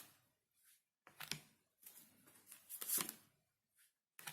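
Tarot cards being handled: a few short papery rustles and snaps, the loudest about three seconds in.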